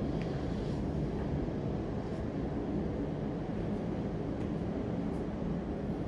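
Steady low rumbling background noise, even in level throughout, with a few faint light ticks.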